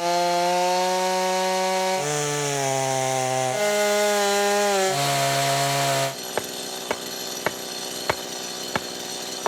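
Chainsaw running at high revs while cutting into a tree trunk, its engine note stepping down and up as the bar takes load. About six seconds in it drops to a quieter sound, with several sharp clicks.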